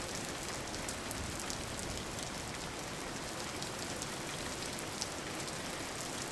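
Steady rain falling, with many distinct drops pattering on a hard surface.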